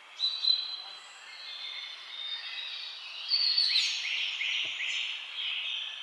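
Wild birds calling and singing: a couple of sharp chirps just after the start, then a run of quick, repeated falling notes through the second half, over a soft outdoor hiss.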